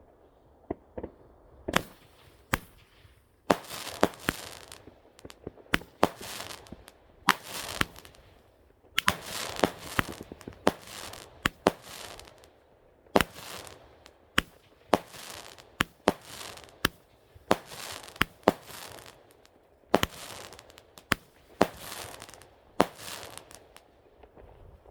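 Consumer firework cake firing a barrage: a string of sharp bangs at irregular spacing, roughly one or two a second, with a hissing fizz between the shots.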